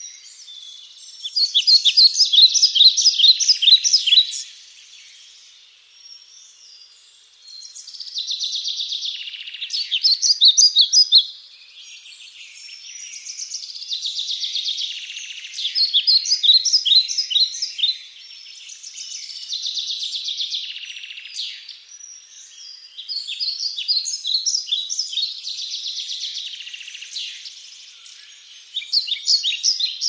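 Birds chirping and twittering: spells of rapid high chirps lasting a few seconds each, returning every few seconds, over a steady high-pitched chatter.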